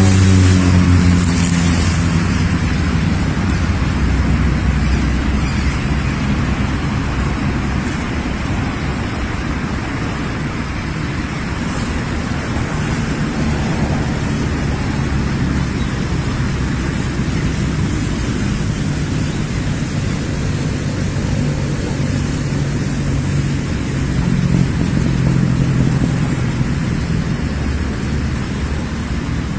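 Motor vehicle engine running steadily, its low hum shifting slightly in pitch, with road noise.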